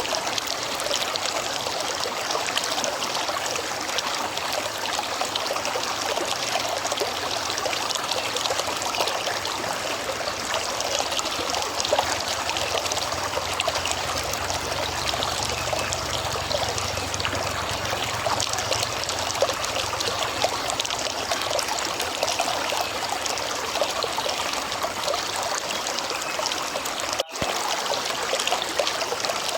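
River water flowing in a steady, trickling rush, with a momentary dropout near the end.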